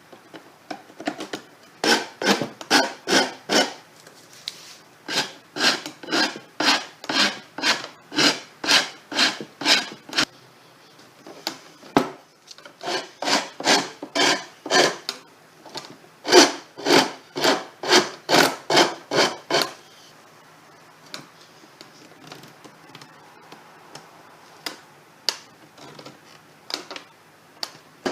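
Hand rasp shaping a small end block of wood in quick back-and-forth strokes, about three a second. The strokes come in two long runs, pause briefly just after ten seconds, and grow faint and scattered in the last third.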